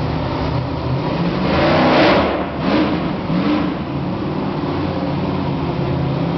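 Monster truck engine running loud and steady, revving up to a peak about two seconds in, then two shorter blips of the throttle.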